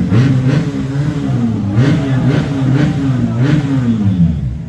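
BMW R 1250 GS boxer-twin motorcycle engine being revved over and over, its pitch climbing and dropping in quick successive blips.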